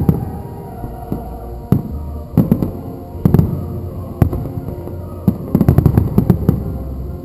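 Fireworks shells bursting in irregular loud bangs, with a rapid run of crackling reports late on.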